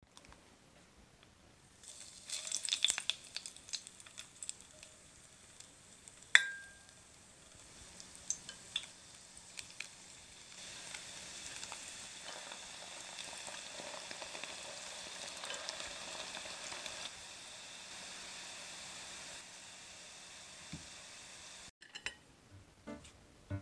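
Churro dough deep-frying in oil in a stainless pot: crackling sizzle, loudest about two seconds in and settling into a steady sizzle from about ten seconds. A single sharp clink with a short ring about six seconds in.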